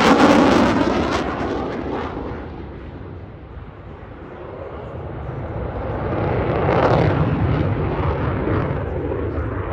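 Jet roar of an F-22 Raptor's twin turbofan engines during a display pass. It is loud at first and fades over about three seconds, then swells again to a second peak about seven seconds in, with a sweeping change in pitch as the jet goes by.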